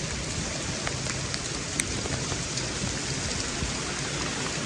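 Freezing rain, rain mixed with small ice pellets, falling steadily onto surfaces, with scattered small ticks as pellets strike and one sharper tick about two seconds in.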